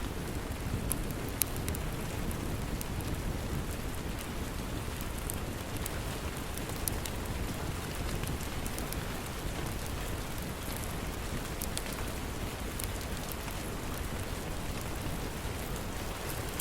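Steady rain with a low rumble underneath, dotted with small, sharp crackles from a wood fire.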